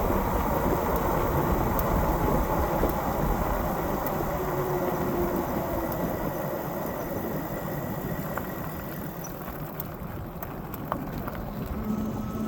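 Riding a dual-motor fat-tire e-bike on a wet road: wind rushing over the microphone and tyre noise, with a faint steady whine from the electric motors. The noise eases off through the middle, and a steady low hum comes in near the end.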